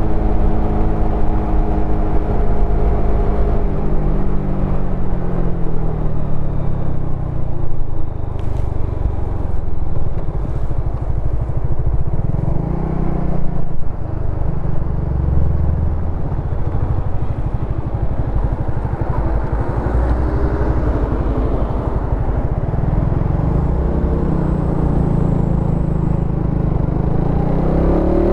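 Suzuki Satria FU FI's single-cylinder four-stroke engine and exhaust while riding: the engine note falls as the bike slows at the start, stays at low revs through the middle, then climbs as it accelerates near the end.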